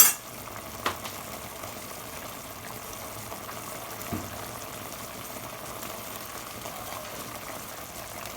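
Chicken adobo simmering in a pot, a steady bubbling as the sauce reduces. A sharp click sounds at the start, a lighter one about a second in.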